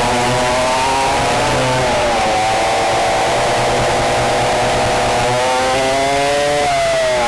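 Two-stroke engines of a vintage dual rear-engine racing kart at high revs. The pitch dips about two seconds in, climbs again, and drops sharply near the end as the throttle comes off.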